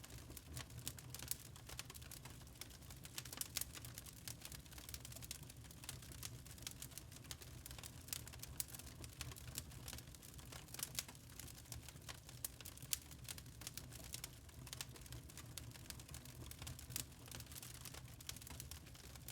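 Wood fire burning in a fireplace: many irregular crackles and small pops from the burning logs over a low, steady rumble.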